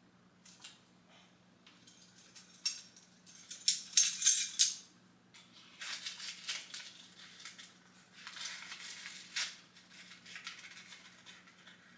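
Dry bread ingredients rattling and scraping in a container as they are measured out with a spoon, in several short bursts, the loudest about four seconds in and another near the end.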